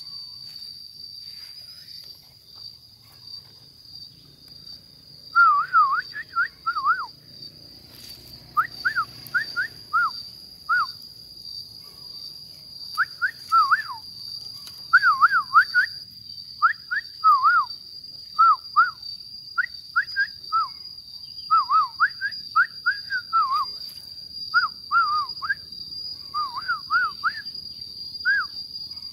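A bird singing short, loud whistled notes that sweep up and down, in quick phrases of two to four, starting about five seconds in. Behind it runs a steady high-pitched insect drone.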